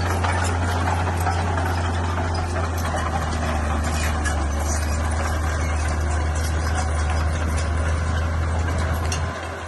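Heavy diesel engine of a bulldozer running steadily with a deep, even hum, easing off near the end.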